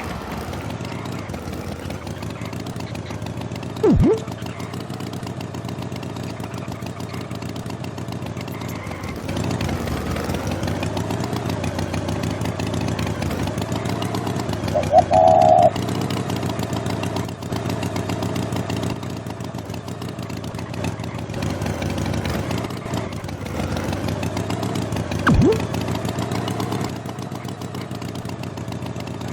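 An engine running steadily. About four seconds in and again near 25 seconds, a quick falling whistle tone cuts across it, and a short high tone sounds about halfway through.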